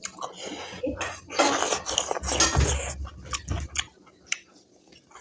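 Close-up chewing of smoked buffalo meat curry: wet, noisy bites in the first three seconds or so, then a few faint clicks, fading to quiet near the end.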